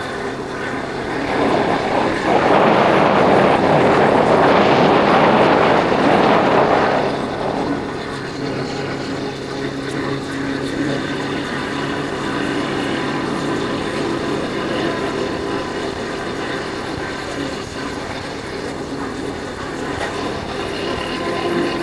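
A Yamaha Factor 150's single-cylinder four-stroke engine running steadily under way, heard from the bike. A louder rushing noise swells over it for about five seconds near the start, then eases off.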